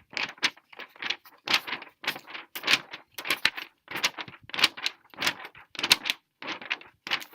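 Repeated rattling, jangling shakes, a bit under two a second, each a short burst of clicks and jingle.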